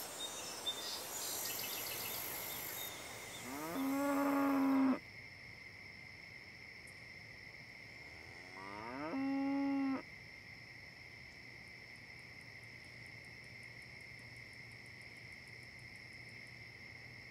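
Cattle mooing: two long calls about five seconds apart, each rising at the start and then holding a steady pitch.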